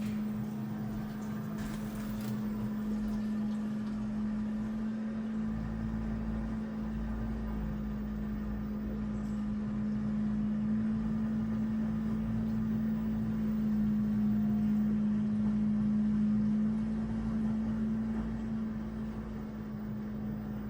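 Washing machine running in its rinse stage: a steady hum, with a low rumble joining in about five seconds in.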